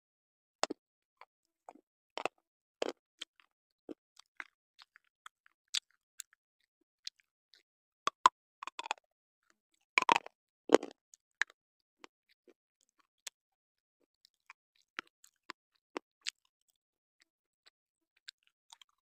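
A person biting and chewing a white slate pencil, close to the microphone: scattered sharp crunches and clicks, with a louder run of crunches about halfway through.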